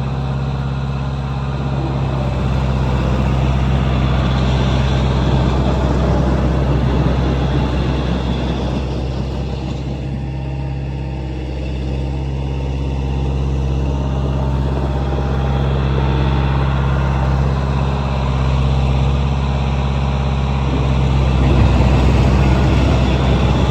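Engine of a Swinger 3000 compact wheel loader, a four-cylinder John Deere, running steadily, easing off a little around ten seconds in and picking up again after.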